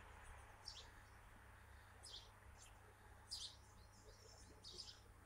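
Near silence broken by about five faint, short, high chirps of a small bird.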